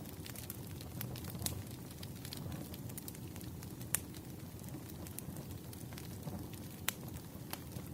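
Wood fire crackling in a fireplace: a steady low rumble of flames with scattered sharp pops and snaps, the loudest about four seconds in and again near seven seconds.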